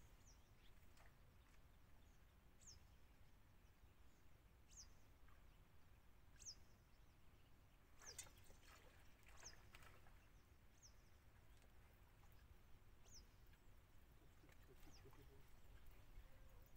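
Near-silent waterside ambience with a bird repeating a short, high, downward chirp every second or two, and a few faint clicks about halfway through.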